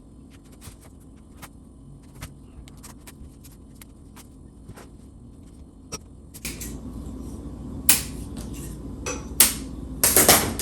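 Small clicks and ticks of stiff plastic rattan strands being worked through a chair's woven seat. About six seconds in this gives way to louder rustling handling noise with a few sharp knocks.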